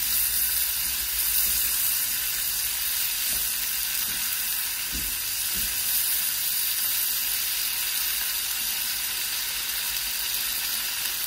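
Chopped onion, peppers and tomato sizzling steadily as they sauté in fat in a wide non-stick frying pan, stirred with a silicone spatula, with a few faint knocks of the spatula against the pan.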